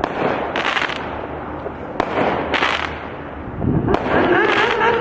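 Consumer fireworks going off close by: several short hissing bursts about every second and a half to two seconds, with a sharp crack about two seconds in. A wavering pitched tone comes in near the end.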